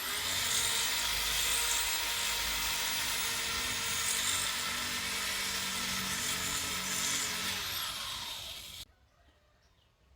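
A high-pitched electric power tool motor spins up, runs steadily for about eight seconds, then winds down and cuts off near the end.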